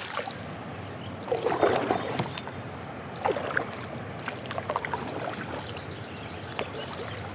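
Water sloshing and splashing against a kayak while a hooked fish is fought, with scattered light clicks and knocks.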